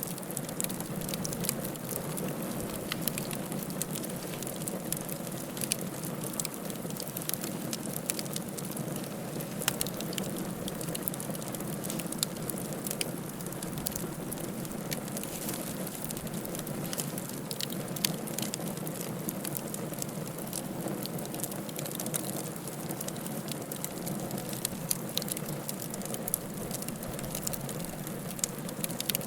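Wood fire crackling steadily in a fireplace: a continuous hiss with frequent sharp pops and snaps, a few of them louder.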